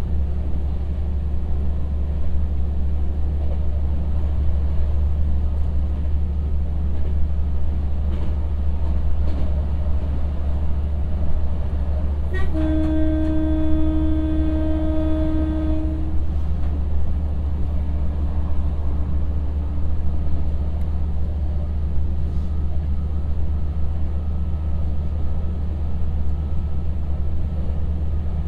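KTR700 diesel railcar under way, heard from inside the car: a steady low engine and running rumble, with the train's horn sounding one long blast of about three and a half seconds about halfway through.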